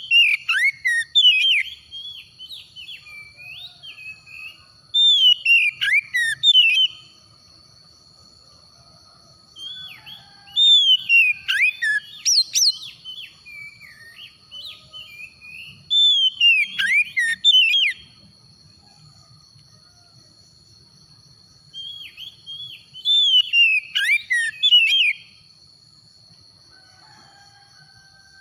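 Oriental magpie-robin (kacer) singing: five bursts of loud, fast, whistled phrases, each about two seconds long, with mostly falling notes, spaced about five seconds apart. A faint steady high tone runs underneath for most of the time.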